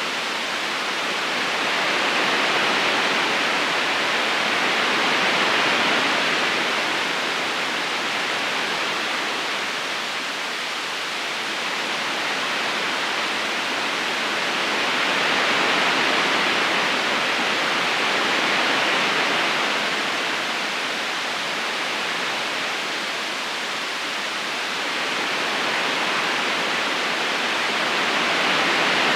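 River current flowing steadily, an even rushing of water that slowly swells and eases in loudness every few seconds.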